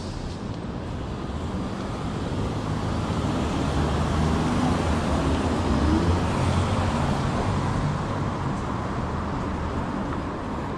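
City street traffic with a motor vehicle passing close by: a low engine and tyre rumble that builds to its loudest about six seconds in and then fades away.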